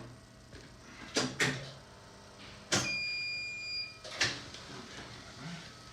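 X-ray machine making an exposure: a few clicks, then a sharp clunk and a steady electronic beep about a second long, then another clunk. A low steady hum sits underneath.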